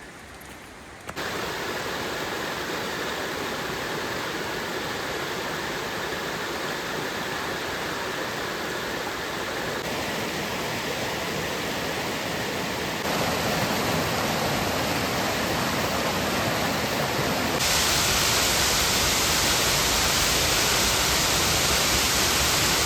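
Waterfall's steady rush of falling water, an even hiss with no breaks. It starts suddenly about a second in and gets abruptly louder three times, the last time about two-thirds of the way through.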